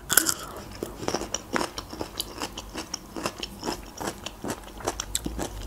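Close-up crunchy chewing of a pickled gherkin: many small, sharp crunches and wet clicks as the mouth works through it.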